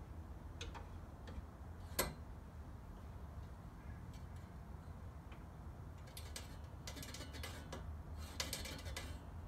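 Cutting reel of a Scott Bonnar Model 45 cylinder mower spun by hand, its blades lightly ticking against the bed knife: the sign that the reel is set just touching the knife. Scattered faint ticks, a sharper click about two seconds in, and quicker runs of ticks near the end.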